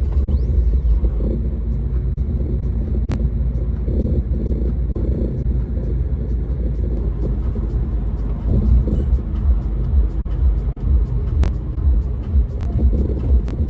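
Low, steady rumble of a car being driven: engine and road noise.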